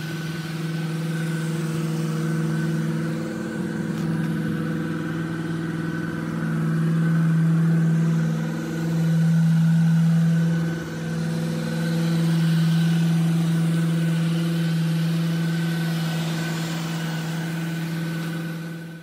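The 1966 Chevrolet Impala's 327 V8 engine idling steadily, swelling louder twice in the middle.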